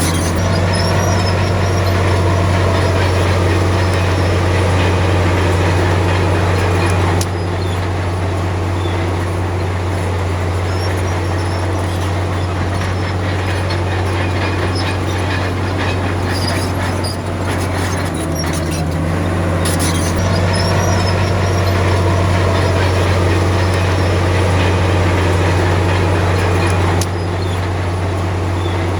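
Diesel engine of a Komatsu D53P bulldozer running steadily with a deep, constant hum, with some metallic clatter near the middle. The level drops sharply about a quarter of the way in and again near the end.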